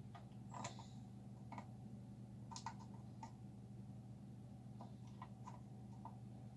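Faint, irregular clicks and taps of small hand tools working a soldered-in fuse loose from a power amplifier's circuit board, over a steady low hum.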